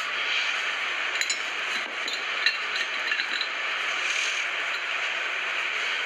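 A steady rush of water with a few light clinks and scrapes of hard objects between about one and three and a half seconds in.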